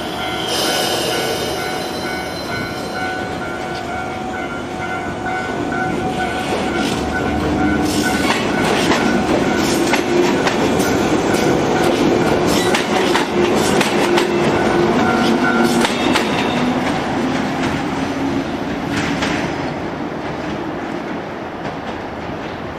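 JR 103 series electric train running on the Tsurumi Line, louder from about 8 to 16 seconds in, with a run of short sharp clicks from the wheels and rails. Steady tones sound under it and stop about 16 seconds in.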